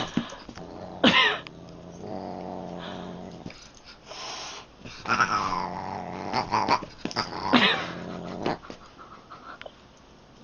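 Cat yowling and growling, with several drawn-out cries that slide in pitch between stretches of low, steady growling.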